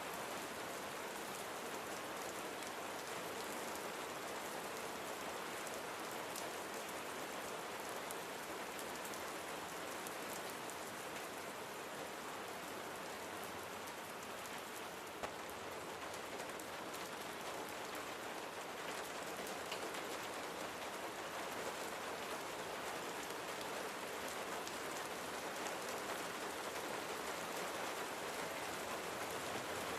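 Steady rain falling and pattering on surfaces, an even hiss with scattered fine drop ticks.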